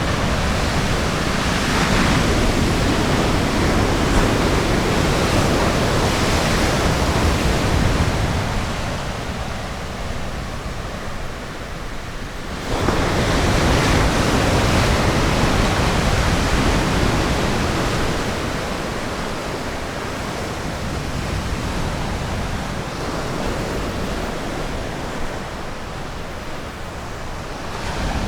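Ocean surf on a beach: a steady rush of breaking waves that swells and eases. It drops off about a third of the way in, then surges back suddenly a little before the middle.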